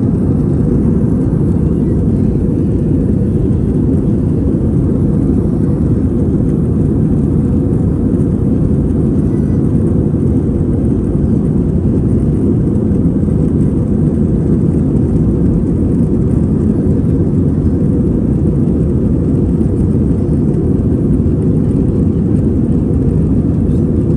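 Airliner cabin noise in flight: a steady, loud, low rush that holds level without change.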